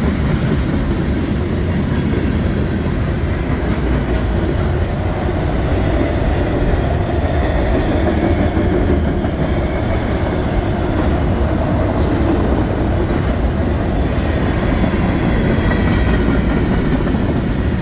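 Freight cars of a CSX mixed freight train rolling past close by: a steady, loud rumble of steel wheels on rail.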